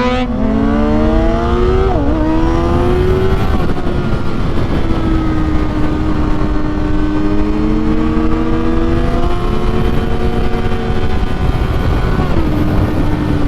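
Inline-four 600 cc sport bike engine pulling hard, its pitch rising, with a quick gear change about two seconds in. After that it settles into a steady cruise, shifting a couple more times, over constant wind rush.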